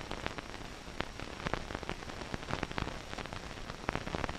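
Crackle and hiss of an old film soundtrack: irregular clicks and pops over a steady hiss.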